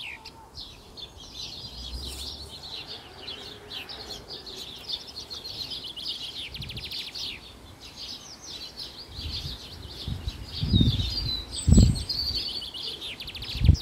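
Songbirds singing, with rapid chirps and trills. A couple of low thumps come near the end.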